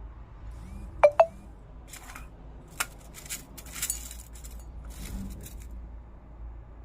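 Two sharp metallic clinks in quick succession about a second in, followed by a few seconds of scattered light knocks and rustling, like handling of small metal objects and fabric at a sewing table.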